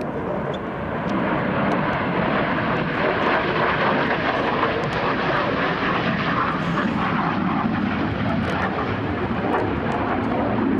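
MiG-17 fighter's single turbojet engine passing in flight: a dense jet noise that grows louder about a second in and holds steady.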